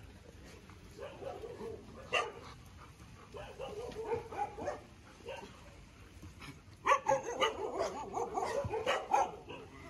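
Many shelter dogs barking, yipping and whining at once, scattered at first and becoming a louder, busier chorus about two-thirds of the way in.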